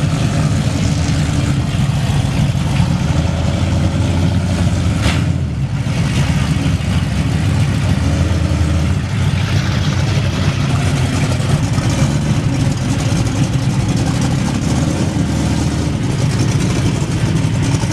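Car engines at a rev off, running very loud with modified exhausts and being revved and held high, with a brief dip and a sharp click about five seconds in.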